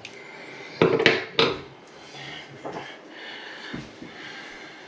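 Metal faucet parts and tools knocking and clinking as they are handled during a faucet repair: three sharp clinks close together about a second in, then a few fainter knocks.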